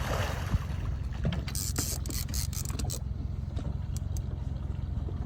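Boat engine idling with a steady low hum, with scattered clicks and knocks throughout and a couple of brief hissing patches.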